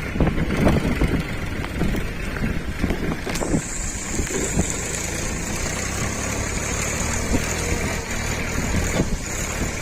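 Powertrac 434 Plus tractor's diesel engine running steadily, with gusty rustling on the microphone in the first few seconds. A steady high hiss comes in about three and a half seconds in.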